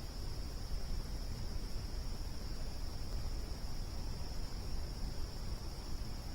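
Steady chorus of crickets chirping, with a campfire's low, even rumble underneath.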